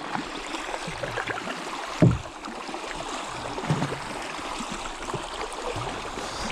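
Water splashing and trickling around a kayak as it is paddled, with small scattered drips and clicks, and a single loud, low thump about two seconds in.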